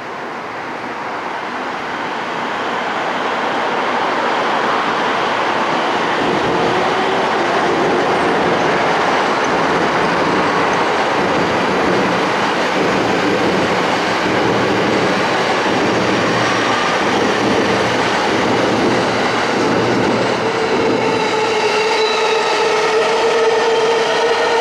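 Sobu Line electric train running on the track, its rolling noise building over the first few seconds and then holding steady. Near the end a steady pitched whine with several overtones comes in.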